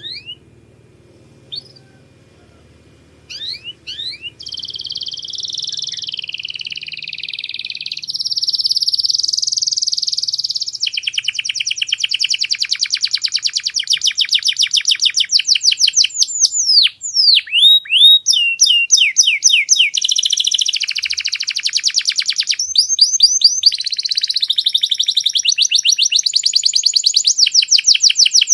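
Domestic canary singing a long, loud song of rapid trills and rolls, each a fast run of repeated high notes, with a few quick sweeping whistles in the middle. The song begins a few seconds in after a nearly quiet start.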